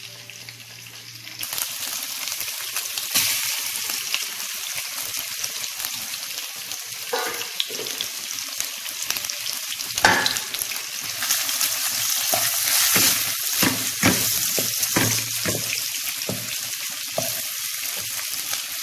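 Marinated chicken pieces sizzling as they fry in hot oil in a nonstick wok, with a wooden spatula scraping the pan as they are stirred. The sizzle starts about a second and a half in and grows louder in the second half, with a sharp knock of the spatula midway.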